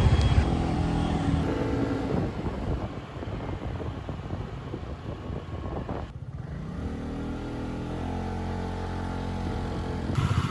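A motor vehicle's engine running, with steady rumble. It dips briefly about six seconds in, then its tone rises gently.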